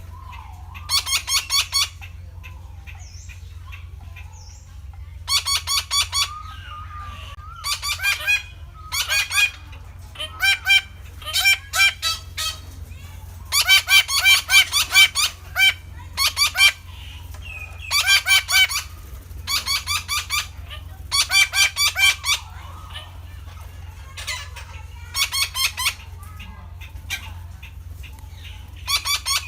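Red-breasted parakeet calling: bouts of rapid, harsh repeated notes, a few to several in quick succession, with short pauses between bouts, over a steady low hum.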